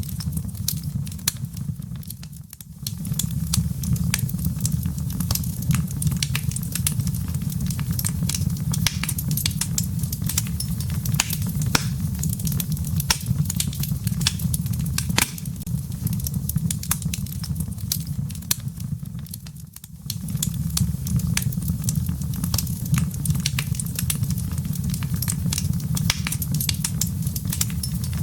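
Wood fire in a fireplace crackling, with many small sharp pops of the embers over a steady low rumble. The sound dips briefly twice, a few seconds in and again about two-thirds of the way through.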